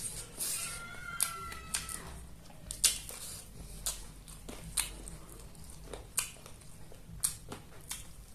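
Close-miked eating sounds: sharp wet mouth smacks and clicks about once a second while food is chewed.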